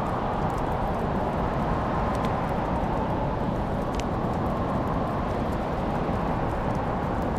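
Wood fire crackling in a fireplace: a steady low rushing noise with a couple of sharp pops about two and four seconds in.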